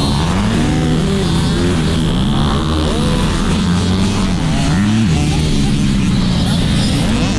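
Dirt bike engines revving up and down, rising and falling in pitch over and over as the bikes accelerate and shift.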